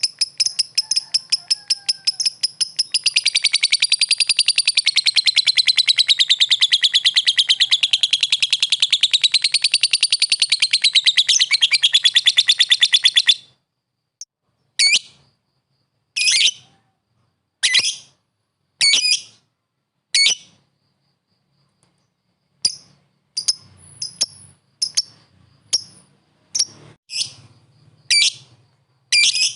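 Lovebird calling. First comes a long, fast chattering trill of shrill calls, about ten a second, that wavers up and down in pitch and then stops abruptly; this is the long 'ngekek' call that keepers prize. After that come single short shrill calls every second or so, more frequent near the end.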